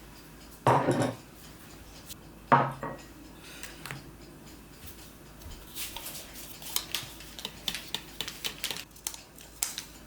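Dishes and cutlery knocking and clinking during a meal: two heavier knocks in the first few seconds, then a run of light, quick clicks and taps near the end.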